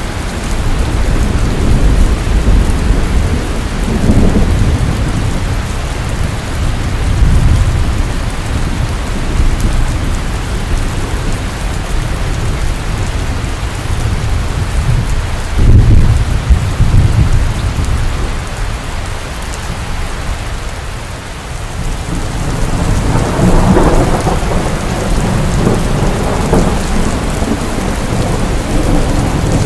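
Steady rain falling, with thunder rumbling several times over it; one sharper clap of thunder about halfway through rolls off into a rumble.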